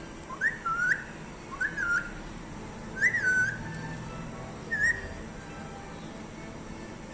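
Parrot whistling: four short whistled notes, each sliding up and down in pitch, spread over about the first five seconds.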